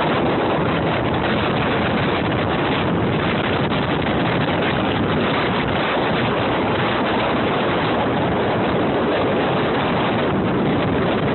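Strong storm wind buffeting the microphone: a loud, unbroken rush of noise.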